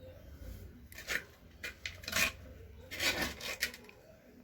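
Spoon scraping against a pan in a few separate strokes, the longest about three seconds in.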